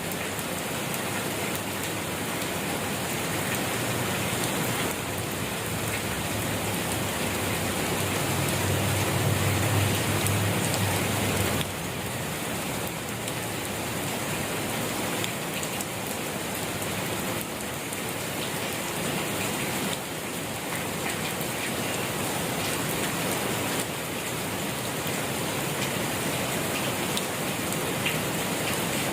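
Steady gentle rain falling on surfaces, a dense even patter. A low rumble swells under it for the first third, and the sound shifts abruptly about twelve seconds in.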